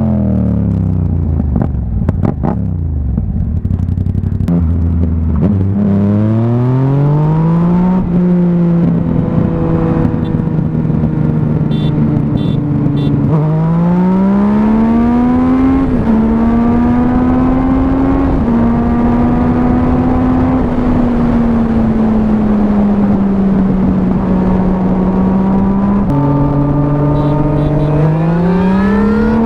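A sport motorcycle's engine running through an aftermarket exhaust while riding. The revs fall at first, then climb, dropping sharply at each upshift. It holds a steady cruise for a while, then shifts and pulls again near the end.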